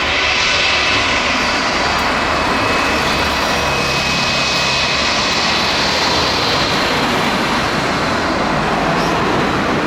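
Jet airliner engines running loud and steady: a high whine over a broad rushing noise.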